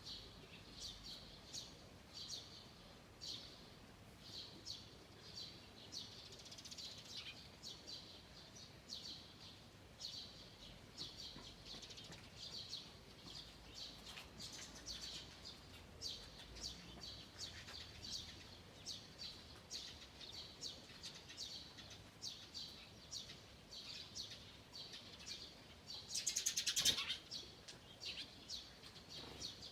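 Forest songbirds chirping and singing, a steady stream of short, high notes from several birds. About 26 seconds in comes one louder, rapid trilling call lasting about a second.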